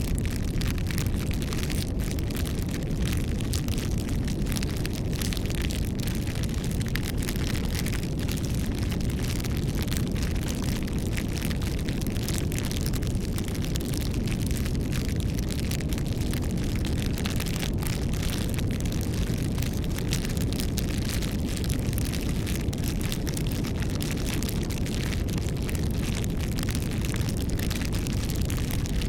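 Campfire burning: a steady low rumble of flames with many small crackles from the burning wood throughout.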